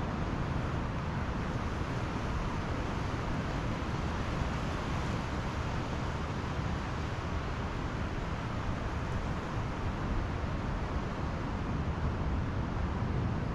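Pacific Ocean surf washing on the beach, heard as a steady rushing noise without breaks.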